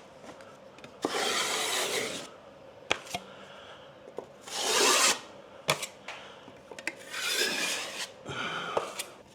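A blade scraping cornice cement over drywall as holes are filled, in three long strokes with a few light clicks between.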